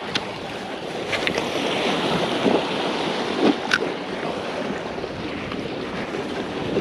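Wind rushing over the microphone and small waves washing against the bank, with a few light clicks.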